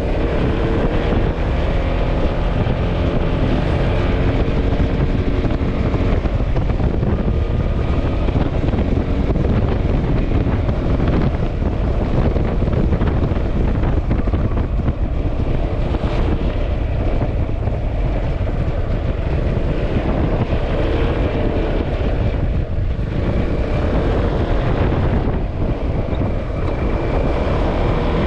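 Yamaha Xmax maxi-scooter engine running while riding, its pitch shifting a little, with wind rushing over the microphone.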